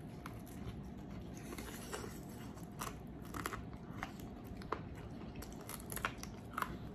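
Close-miked mouth sounds of eating: chewing with scattered wet lip smacks and clicks as fingers are licked clean.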